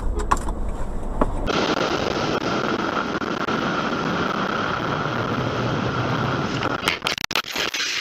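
Car driving noise heard from inside the vehicle: a low road rumble that switches abruptly about a second and a half in to a steady, hissier road and wind noise, with a few sharp clicks near the end.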